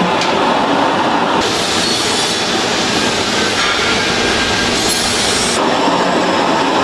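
Loud, steady machinery noise.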